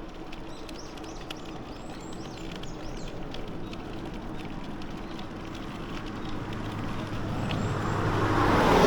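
A motor vehicle on the road approaching, its engine and tyre noise growing steadily louder over the last few seconds to a peak at the end.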